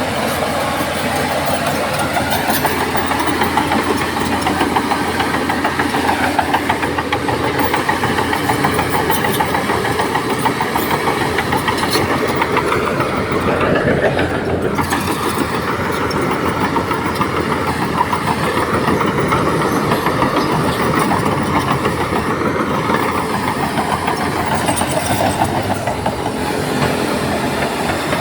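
Heavy diesel engine of a Shantui bulldozer running hard while pushing sand. It runs steadily, rises in pitch about halfway through, then drops off sharply.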